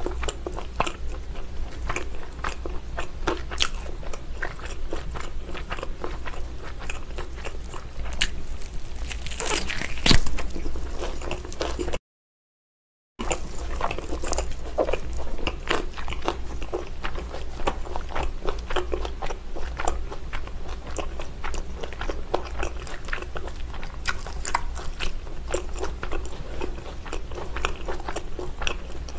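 Close-miked chewing and biting of a whole braised pig's trotter (jokbal): a dense stream of small wet mouth clicks, with a louder burst about ten seconds in. The sound cuts out for about a second around twelve seconds in.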